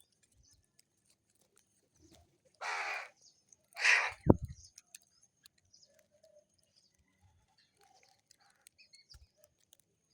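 Crow cawing twice, harsh calls about a second apart near the middle, with a sharp knock straight after the second caw.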